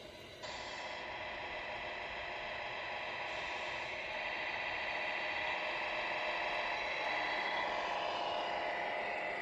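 Steady whine of a 1/14-scale RC truck's electric drive motor and gearbox, cutting in sharply about half a second in and slowly growing louder.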